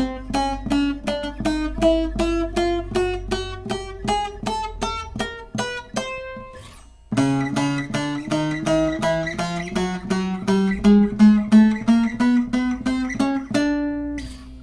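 Short-neck bağlama with a mulberry bowl, picked with a plectrum one fret at a time. It plays single notes at about four a second, climbing step by step, in two runs with a short break about halfway.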